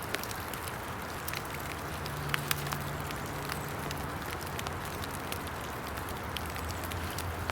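Rain falling, a steady hiss with scattered irregular ticks of drops hitting close by.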